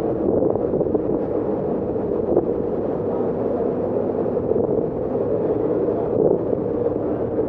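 Steady noise of a passenger ferry underway, its engines and passage through the water making a continuous rumble, with some wind on the microphone.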